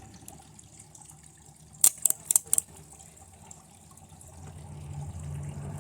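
A quick cluster of about five sharp crackling snaps, about two seconds in, as lead-acid battery leads arc against a TV circuit board being burned at high current and low voltage. A low steady hum rises near the end.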